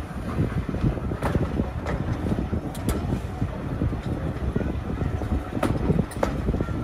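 Heritage railway carriage running along the line, heard from inside the coach: a steady rumble from the wheels on the rails, with irregular knocks and clatter.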